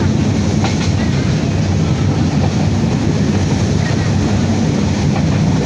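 Passenger train running: a steady, loud rumble of wheels on track.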